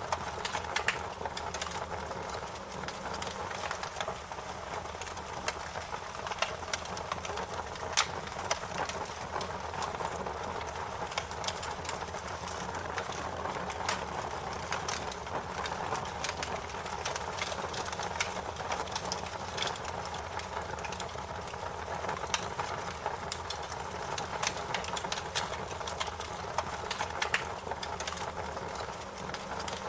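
Fire crackling: a steady rushing hiss under frequent sharp pops and snaps, with one of the loudest pops about eight seconds in.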